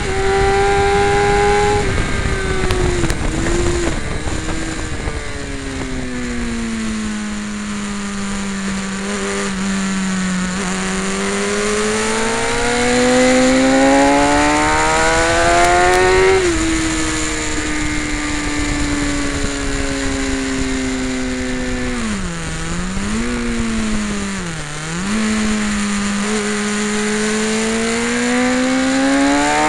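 Sport motorcycle engine heard from the rider's seat as it is ridden hard around a track. Its pitch falls within the first few seconds, then climbs slowly over a long pull. It drops a step about halfway, dips sharply twice near the end, and climbs again.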